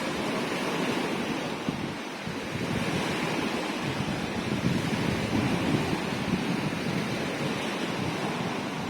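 Sea waves washing in with a steady surf hiss that swells and eases, and wind buffeting the microphone.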